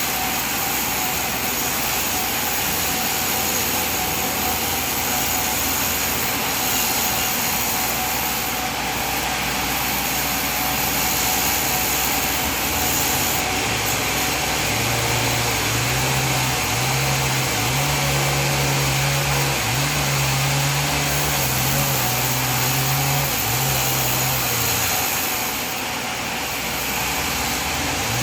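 Sawmill machine running and sawing timber: a loud, steady machine noise. A low hum comes and goes in short stretches through the second half.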